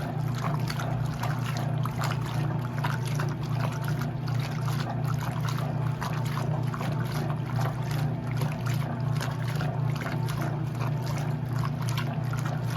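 Electrolux LE06DBD top-load washing machine running a wash, a steady low motor hum under continuous water sloshing and splashing in the tub.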